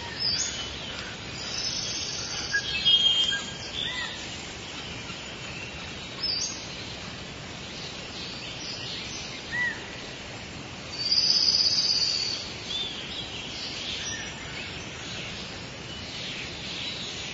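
Several songbirds chirping and singing over a steady background hiss, with a louder high trill about eleven seconds in.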